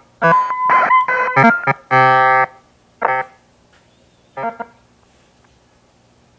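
Circuit-bent electronic keyboard sputtering out glitchy synthetic tones: a quick jumble of notes with a sliding pitch, a buzzy held tone about two seconds in, then two short isolated blips before it stops.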